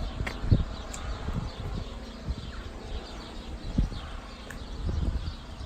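Outdoor ambience with faint, scattered bird chirps, broken by irregular low thumps against the microphone.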